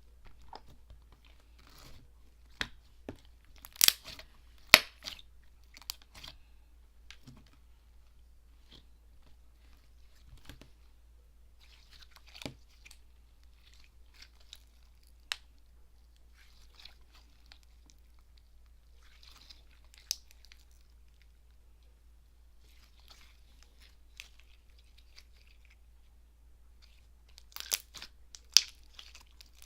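Avalanche slime being pressed, stretched and squished by hand, giving scattered sharp clicks and pops with softer crackling in between. The loudest pops come in a cluster about four seconds in and again near the end.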